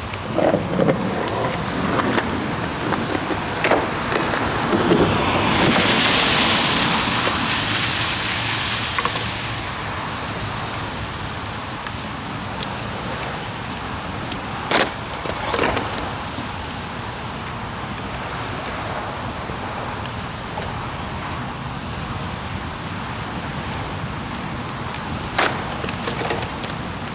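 Steady hiss of rain on wet pavement, with a louder rushing hiss that swells and fades about a third of the way in, and a few sharp skateboard clacks, one pair midway and one near the end.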